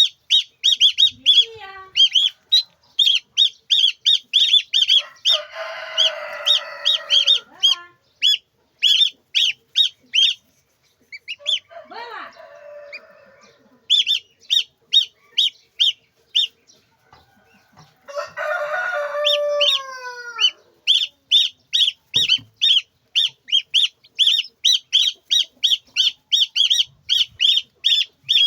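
Chickens: rapid, high peeping runs on in quick repeated notes with a few pauses, while a rooster crows twice, once about 5 s in and again about 18 s in, with a shorter call between.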